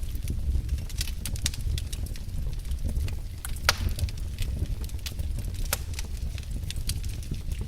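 Wood fire in a fireplace crackling, with irregular sharp pops over a steady low rumble of the flames; one louder pop about halfway through.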